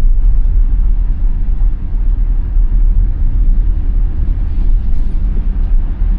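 Steady low road rumble inside the cabin of a 2021 Tesla Model Y electric car, its tyres rolling on a snow-covered road.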